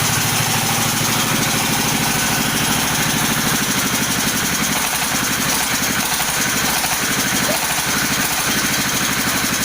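Floating fish-feed pellet machine running steadily: a low, evenly pulsing drive drone under a loud, even rushing noise.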